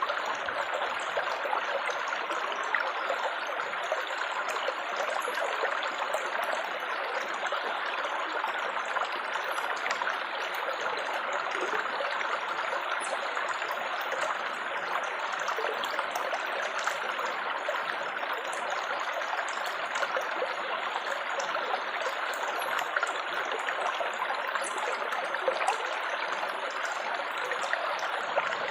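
Running water trickling and babbling steadily, like a small stream.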